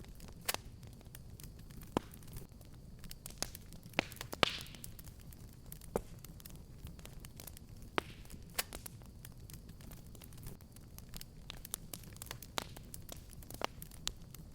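Wood fire crackling in a fireplace: a steady low burning rumble with irregular sharp pops, the loudest about four and a half seconds in, followed by a brief hiss.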